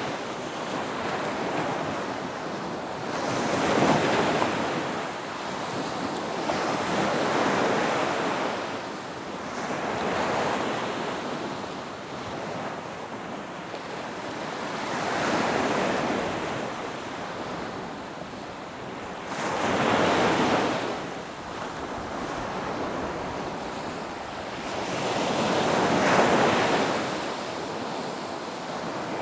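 Ocean waves breaking on a beach, about six swells of surf that rise, crash and wash back down, a few seconds apart.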